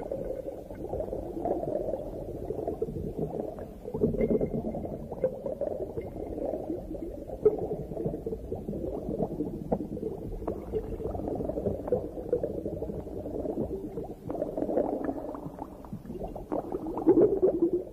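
Underwater sound on a coral reef: a constant low bubbling, gurgling water noise with scattered sharp clicks, swelling louder about four seconds in and again near the end.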